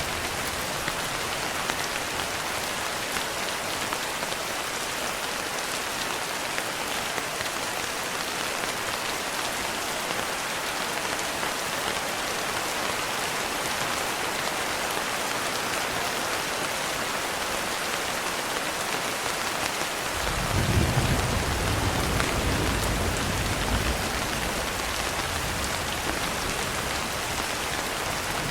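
Steady rain pattering on window glass. A low rumble of distant thunder rolls in about two-thirds of the way through and dies away over a few seconds.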